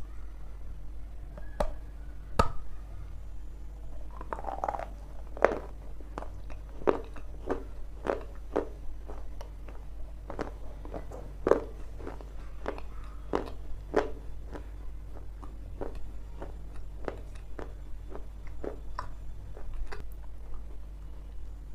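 Repeated crunching bites and chewing of something hard and crunchy, in irregular strokes about one or two a second, over a steady low hum.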